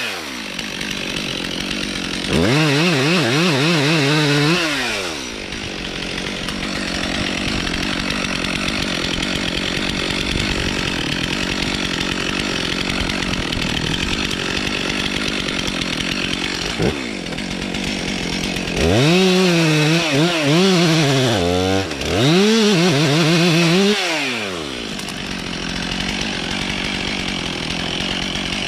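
Stihl MS 362 C two-stroke chainsaw cutting through birch under steady load. Twice, about two seconds in and again about nineteen seconds in, it revs up freely and its pitch climbs and dips for a few seconds before it settles back into the cut.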